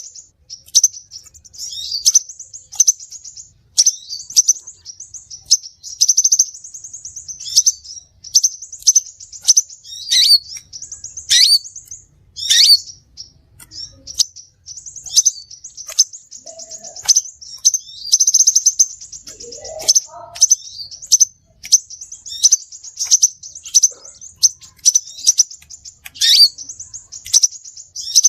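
Crimson sunbird (sepah raja) calling, as played for bird luring: high thin chirps, fast ticking trills and sharp downward-sweeping notes, repeated almost without pause.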